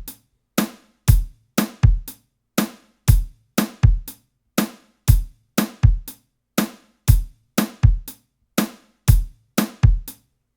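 A drum groove playing back from sampled acoustic drum kit hits: kick, snare and hi-hats in a steady pattern of about four hits a second. The kicks are grouped through a glue compressor for a tighter, punchier sound.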